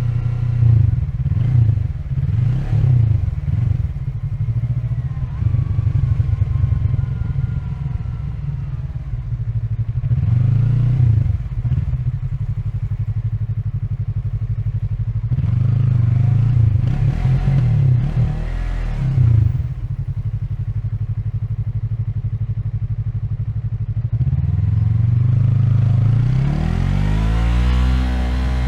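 Yamaha MT-03's 321 cc parallel-twin engine under way in stop-and-go traffic, accelerating and easing off several times, with a long rise in revs near the end.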